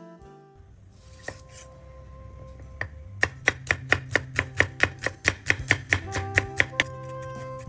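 Kitchen knife chopping on a cutting board: a quick, even run of about seventeen strokes, roughly five a second, starting a few seconds in, over background music.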